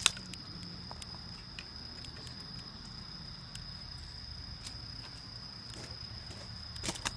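A steady high-pitched insect trill, with scattered sharp clicks about a second apart and a louder cluster of clicks near the end.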